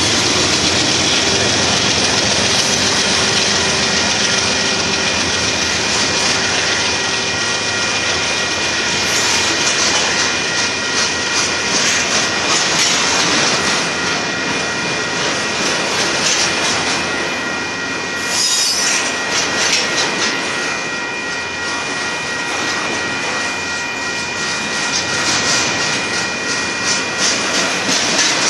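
Double-stack container cars of a Union Pacific freight train rolling past, a steady loud rush of wheels on rail with several steady high-pitched tones running over it. Rapid clattering of wheels over the rail joints picks up in the middle stretch, with a brief sharp high squeal about two-thirds of the way through.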